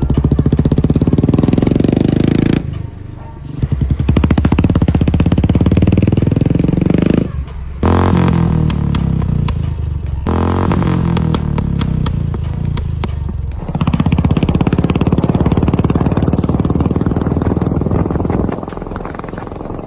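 Royal Enfield Classic's single-cylinder engine running through a custom exhaust, its throttle opened and eased off several times, with short dips about three and seven and a half seconds in.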